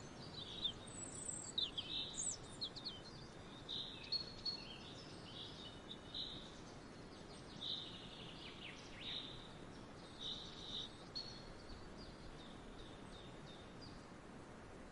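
Several small songbirds singing and chirping, with short quick notes and trills, busiest in the first few seconds and then more scattered, over a steady outdoor hiss.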